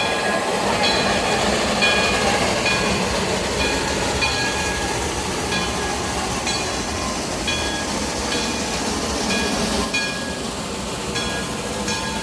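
Steam train running, a steady rumble with a short metallic ringing tone repeating about every three-quarters of a second.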